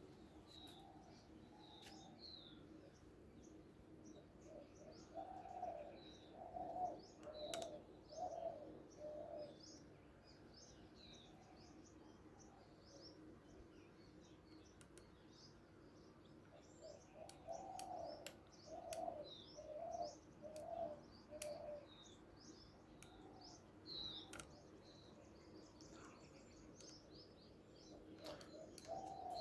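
Faint birdsong: a dove cooing in two runs of several low notes, with small birds chirping in short high calls throughout.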